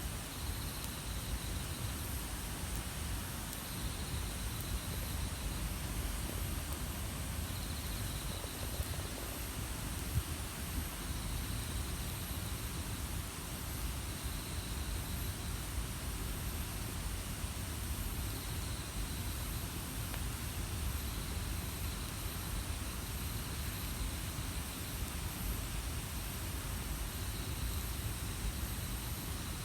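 Wood campfire burning with a steady low rush and an occasional faint crackle. Behind it runs a high steady hiss, and a short high pulsed trill repeats every three to four seconds.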